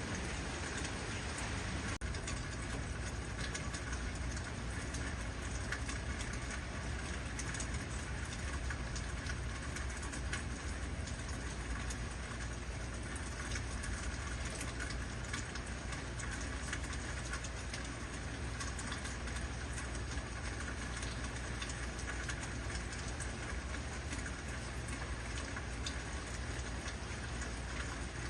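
Heavy rain falling steadily: a constant hiss dotted with many small drop taps, over a steady low rumble.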